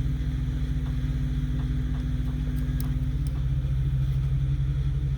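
A truck engine idling steadily: a low, even rumble with a faint steady hum on top that fades about three seconds in.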